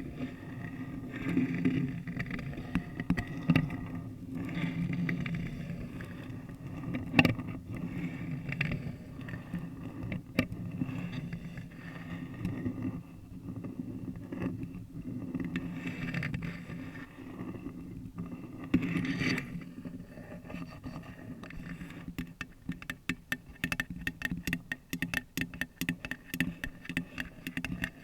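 Long acrylic nails scratching a paper cup and the bare microphone, a continuous rough rubbing with occasional sharp clicks. About three quarters of the way through it changes to fast nail tapping, many quick taps a second.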